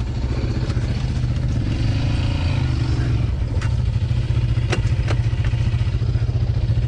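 Off-road vehicle engine running steadily with a fast, pulsing low rumble, with a few sharp clicks in the middle.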